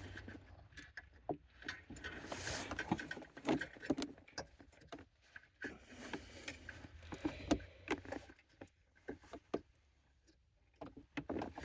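Scattered light clicks, taps and rattles of small metal parts being handled while fitting a new ignition lock cylinder into a car's steering column, with some soft rustling. The clicks thin out and stop briefly near the end.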